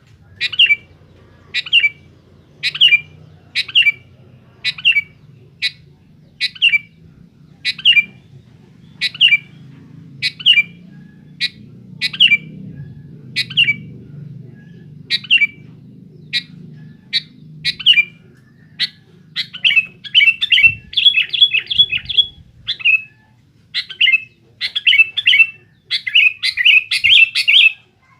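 Sooty-headed bulbul (kutilang) calling: a short, sharp note repeated about once a second, then, from about two-thirds of the way through, quicker runs of notes crowding together in a busy, chattering burst near the end.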